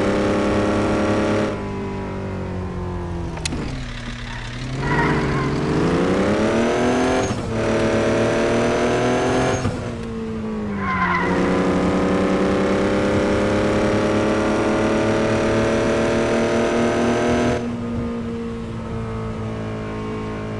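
Vehicle engine running under way. Its pitch dips and climbs again a few times in the first half, as with gear changes, then holds steady at cruise. It drops back, as if easing off the throttle, about three seconds before the end.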